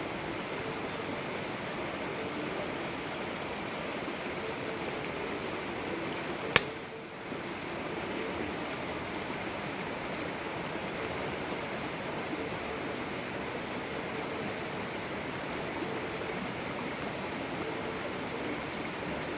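Campfire burning with a steady hiss, and one sharp, loud pop about six and a half seconds in.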